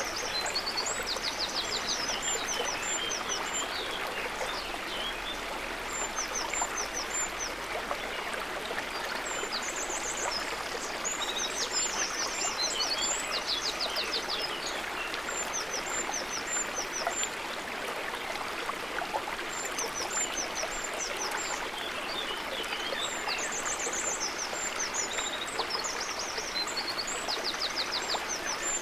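River water running steadily, with a small songbird repeating phrases of high chirps and fast trills that come back about every ten seconds.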